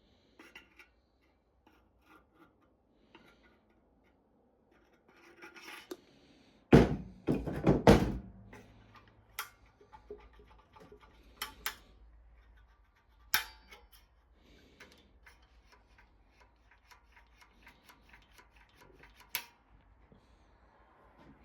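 Scattered knocks, clicks and scraping of things being handled, with a loud cluster of thuds about seven seconds in and a few sharp knocks later.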